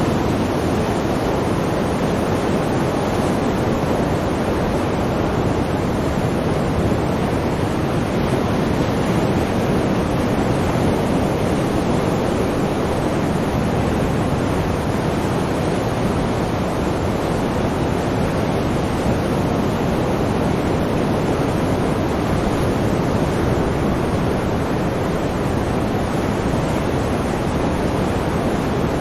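Sea surf washing as a continuous, even rush with no distinct breaking swells.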